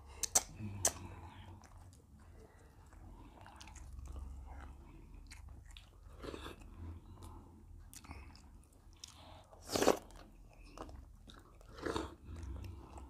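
Close-miked eating: chewing and mouth smacks over mouthfuls of fufu and seafood okra soup, with a few sharp clicks in the first second and louder chewing sounds about six, ten and twelve seconds in.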